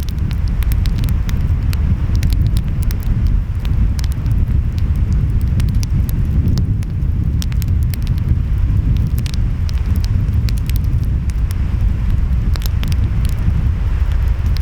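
Wood fire crackling with frequent sharp pops, over a steady low rumble of ocean waves and wind.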